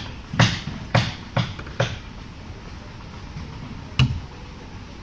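Hammer strikes: four blows about half a second apart, then a single blow about four seconds in.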